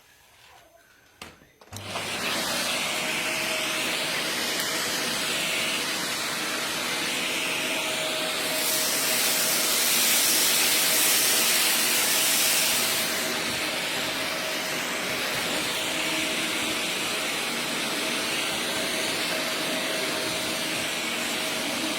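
Kärcher VC 3 bagless canister vacuum cleaner starting up abruptly about two seconds in, then running steadily: a rush of air with a faint steady whine under it. The rush grows louder and hissier for about four seconds in the middle.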